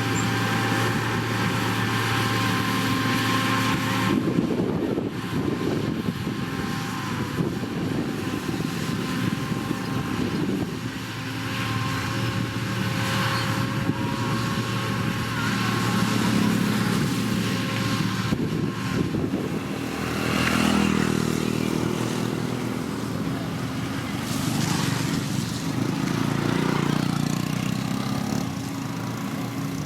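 Diesel engine of heavy road-construction machinery running steadily, with the engine note swelling under load a few times. The sound changes abruptly about four seconds in.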